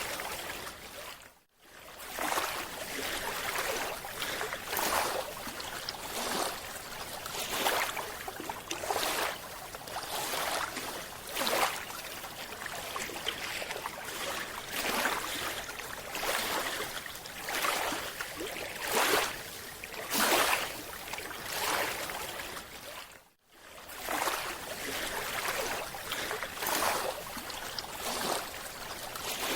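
Rushing, bubbling water noise that comes in repeated surges about every second and a half, cutting out briefly twice.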